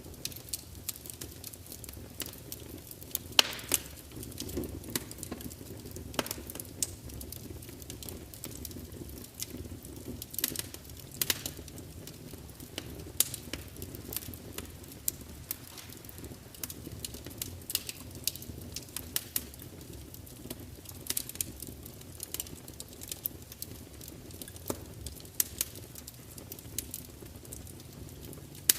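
Wood fire burning in a large open fireplace: a steady low rumble of flames with frequent irregular crackles and sharp pops from the burning logs.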